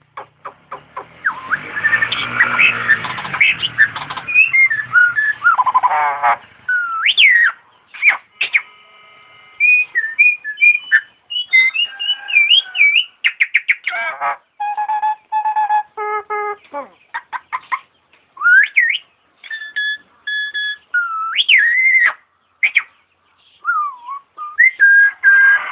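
A jalak (starling) singing a long, varied mimicry song of rapid clicks, a harsh rasping stretch in the first few seconds, sliding whistles and held buzzy notes, which includes its imitation of an ambulance siren.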